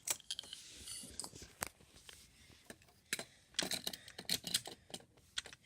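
Scattered light clicks and knocks of toy trains and a toy crane being handled, with a quicker cluster of clicks a little past halfway.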